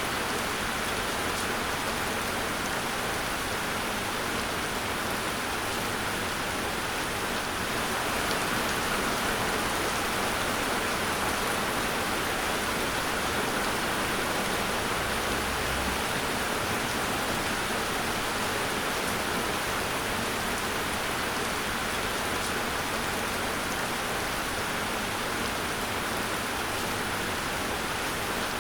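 Steady rain falling and pattering on a surface, an even hiss with no thunder or breaks.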